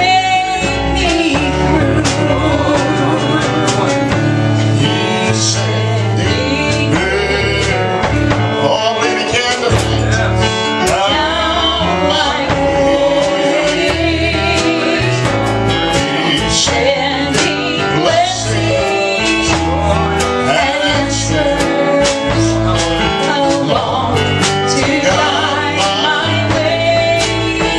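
Country gospel duet sung live by a man and a woman, with guitar and other instruments playing along at a steady beat.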